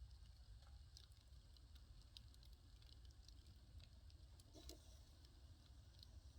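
Firewood fire crackling faintly: sparse, irregular small snaps and pops, with one slightly louder pop about two-thirds of the way in, over a low steady rumble.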